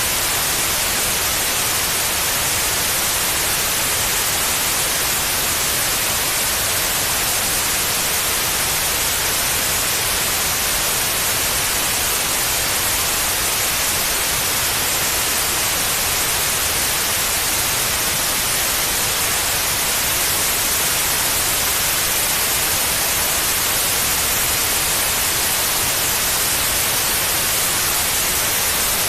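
Steady white noise, an even hiss spread across all pitches, played as a sleep aid for babies.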